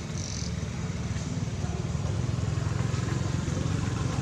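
A motor vehicle engine running steadily, growing a little louder after about a second and a half.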